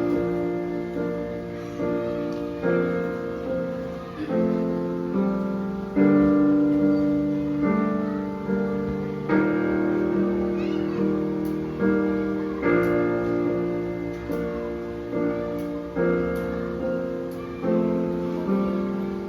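Slow piano music playing sustained chords that change every one to two seconds, each struck chord fading before the next.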